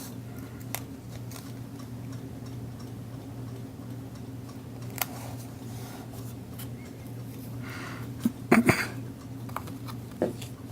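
Scattered small clicks and light handling noises from craft work at a table, with a short burst of louder clicking and rustling about eight and a half seconds in, over a steady low electrical hum.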